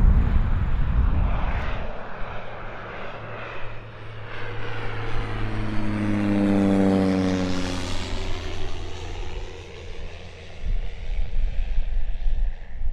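Cessna 208B Grand Caravan's single turboprop flying past on arrival. Its propeller hum swells to its loudest past the middle and then drops in pitch as the aircraft goes by.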